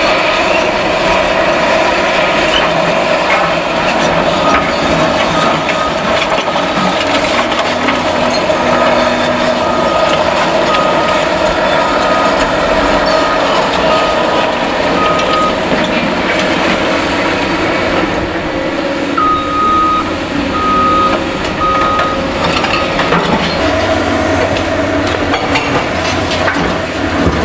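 Heavy diesel machinery on a demolition site, CAT excavators, running steadily under load. A motion alarm beeps regularly for about ten seconds, then four louder beeps sound later on.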